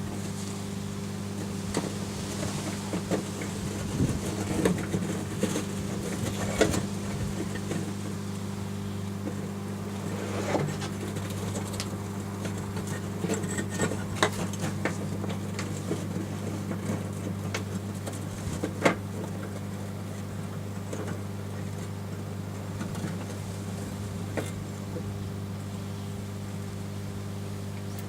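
Microwave oven running with a steady mains-frequency hum, with irregular crackles and sharp pops over it from the small car light bulb and battery inside.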